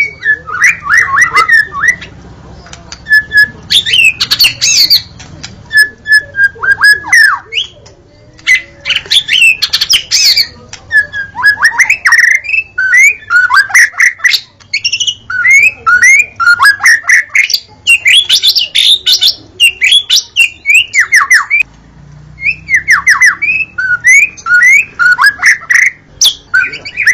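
White-rumped shama (murai batu) singing loudly: rapid, varied phrases of whistled notes, chatter and sharp calls, broken by short pauses.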